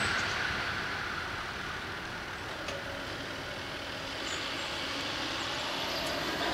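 A passing DB passenger train dies away as it leaves the crossing, leaving a low, steady road-traffic noise that grows slightly louder near the end.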